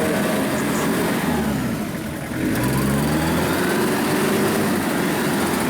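Off-road vehicle's engine revving under load, its pitch dropping briefly about two seconds in, then climbing and holding high.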